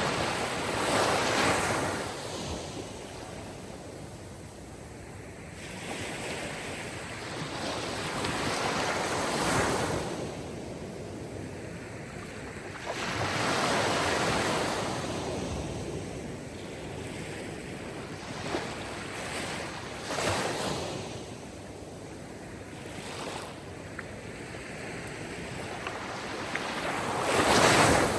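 Sea surf: waves washing in and drawing back, swelling and fading in irregular surges several seconds apart, the loudest near the end.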